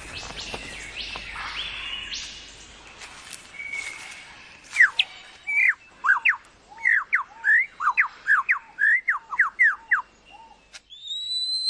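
Superb lyrebird singing: after a few seconds of softer, stepped notes over a hiss, a fast run of loud, sharply falling whistled notes starts about five seconds in.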